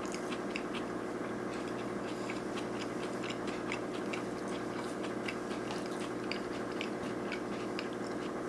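Close-miked chewing of a sushi roll: many small, irregular wet mouth clicks over a steady low hum.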